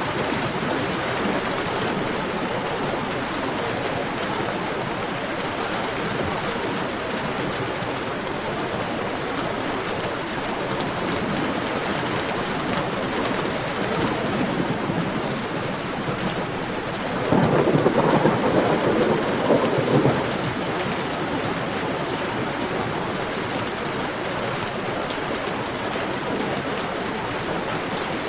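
Heavy rain falling steadily, with a roll of thunder about two-thirds of the way in that lasts roughly three seconds and stands out above the rain.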